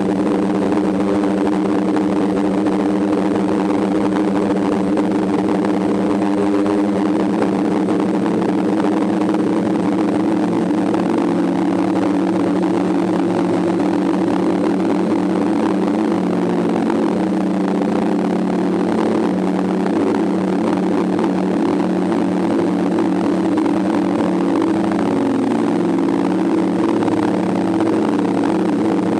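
DJI F550 hexacopter's brushless motors and propellers droning steadily in flight, the pitch shifting slightly now and then.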